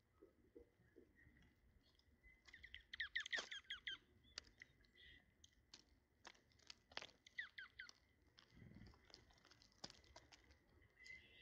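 Small birds feeding, faint: scattered sharp pecking taps and crunches, with a quick run of short falling high chirps about three seconds in and another shorter run at around seven and a half seconds.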